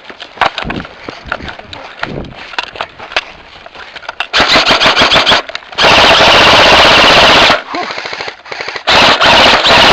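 Airsoft rifles firing on full auto: scattered single shots, then three rapid bursts. The second burst, about six seconds in, is the loudest and longest, close to the microphone, lasting nearly two seconds.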